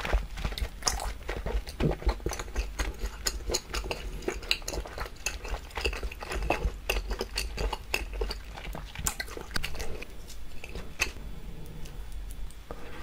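Close-miked chewing with many sharp, wet mouth clicks. Near the end a metal fork clinks and scrapes on the griddle plate as food is gathered into a bite.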